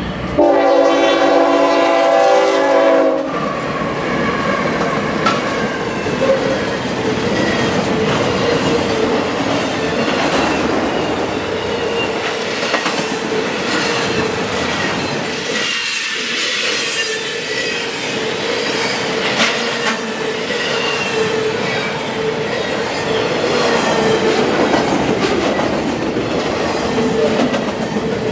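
A freight train's air horn sounds one chord for about three seconds. Then a double-stack container train rolls past, its cars rumbling and its wheels clicking over the rails, with a steady tone running underneath.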